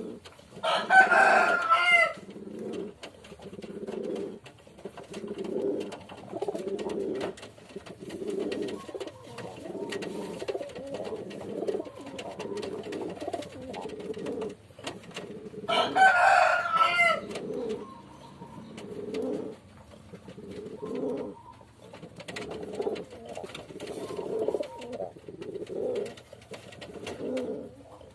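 A dove cooing over and over in low, repeated phrases. Twice a much louder, higher-pitched call of about a second cuts in.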